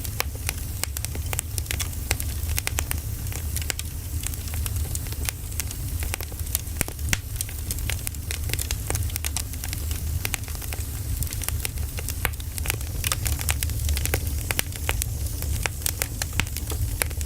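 Wood fire burning, crackling with many irregular sharp pops over a steady low rumble.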